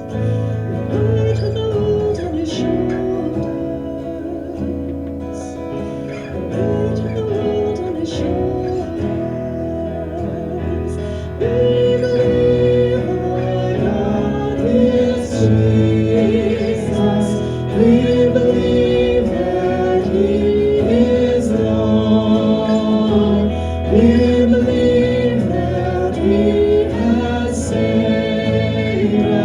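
Contemporary worship song sung by voices over acoustic guitar accompaniment, growing louder about a third of the way in.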